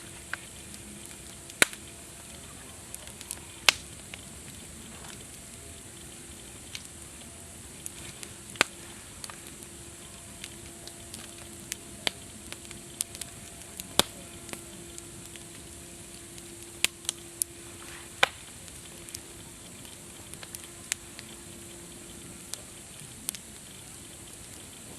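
Wood campfire crackling: irregular sharp pops and snaps over a steady hiss, with a few louder pops scattered through.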